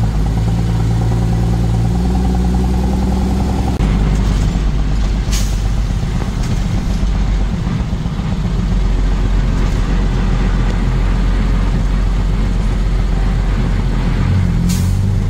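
Truck engine running under way. Its note steps up about two seconds in and changes again near four seconds, then settles into a steady rumble, with a couple of short hisses.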